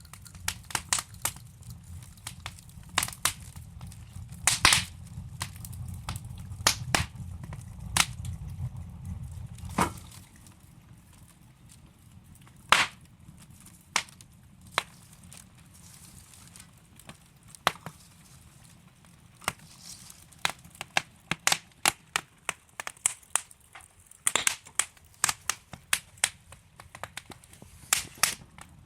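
Wood logs burning in a fireplace, crackling with irregular sharp pops and snaps. A low rumble of the flames underlies the first ten seconds or so, then fades, and the pops come thicker near the end.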